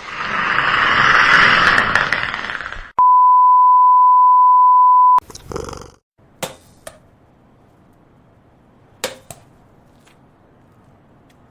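A loud, noisy sound for about three seconds, then a steady electronic beep on one high pitch lasting about two seconds, then a few sharp knocks over a faint background.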